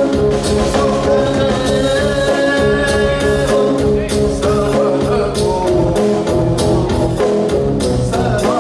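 Raga-based fusion music: a melody of long held notes that bend in pitch, with a singing voice, over steady drum strokes.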